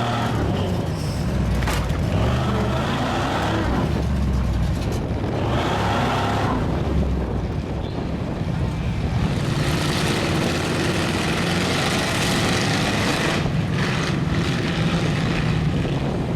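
Big lifted mud-bogging trucks' engines running loudly, surging several times as they are revved.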